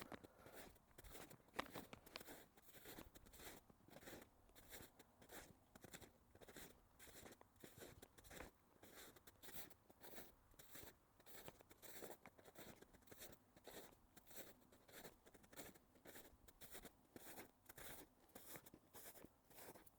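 Faint footsteps crunching through snow at a steady walking pace, about two steps a second, with one sharper click about one and a half seconds in.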